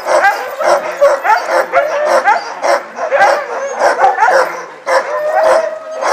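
A pack of sled dogs barking, yipping and howling all at once: a dense, continuous chorus of overlapping yelps, many of them rising in pitch.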